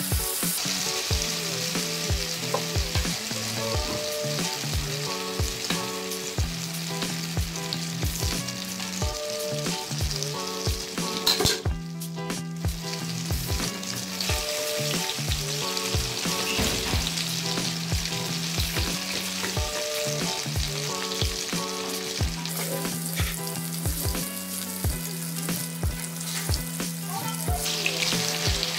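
Eggplant omelette frying in hot oil in a wok: a steady sizzle with frequent small pops and clicks as it is worked with a fork and turned. The sizzle briefly thins out about twelve seconds in.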